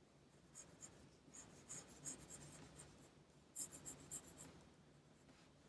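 Pencil drawing on paper: faint, short scratchy strokes, with a quicker run of them about three and a half seconds in.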